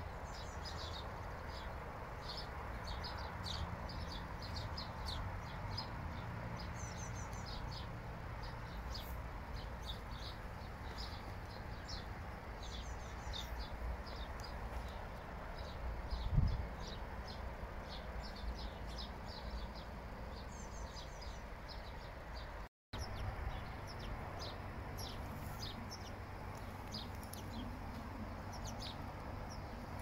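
Small birds chirping, short high calls coming several times a second, over a steady low rumble. A single low thump about halfway through, and the sound cuts out for an instant a little later.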